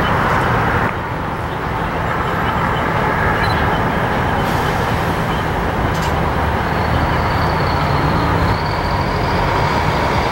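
Canadian National freight train's cars rolling past in a steady rumble of wheels on rail, with a low engine drone underneath. A faint high whine comes in about two-thirds of the way through.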